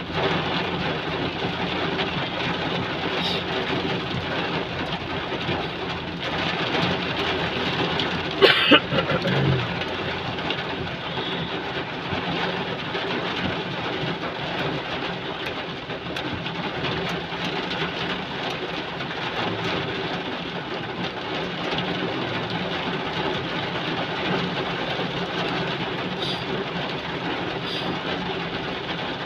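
Heavy rain falling steadily, a continuous hiss. About eight and a half seconds in, a short loud burst of noise stands out over it.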